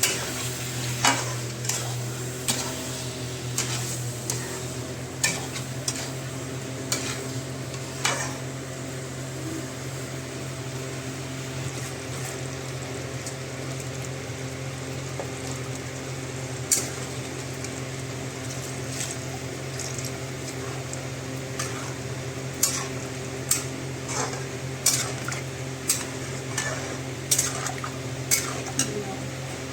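A spoon stirring chicken curry in a cooking pot, knocking and scraping against the metal with sharp clicks that come more often near the end. Light sizzling and a steady low hum run underneath.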